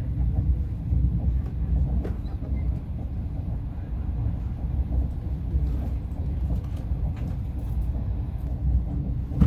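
Steady low rumble of a Lao–China Railway passenger train running along the track, heard from inside the carriage, with a few faint clicks over it.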